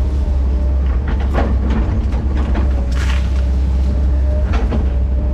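Bulldozer engine running steadily under load while it pushes felled trees and brush, with rattling track clatter and a few sharp knocks.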